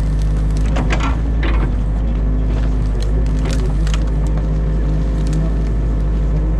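Excavator's diesel engine running steadily, heard from inside the cab, with branches cracking and splintering as the bucket tears apart a beaver dam. There are bursts of sharp cracks about one second in and again around three and a half seconds in.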